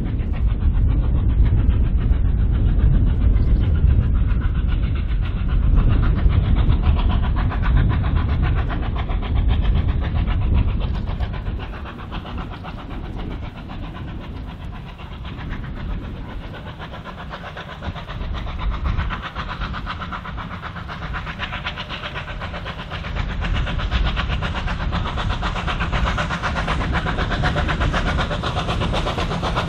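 A train running on the track. A heavy low rumble for about the first ten seconds eases off, then the sound builds again with rail noise over the last several seconds.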